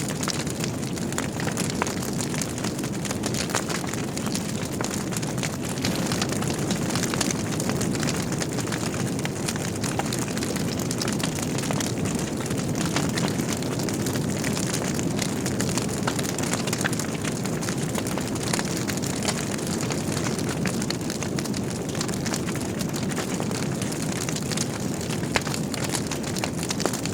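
Wood logs burning in a fireplace: a steady low rumble of flames with frequent small crackles and pops throughout.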